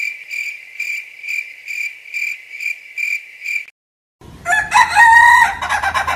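A run of even, high-pitched chirping pulses, about two to three a second, stops abruptly. After a brief silence a rooster crows loudly, about four seconds in.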